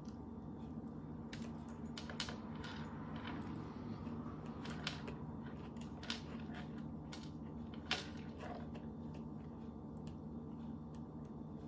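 Scattered faint clicks and taps from gingerbread pieces and icing being handled on a table, over a steady low background hum.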